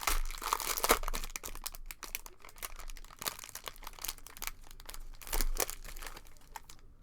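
Cellophane pack wrappers crinkling as trading-card cello packs are opened and handled, in a run of irregular crackles, loudest in the first second and again about five seconds in.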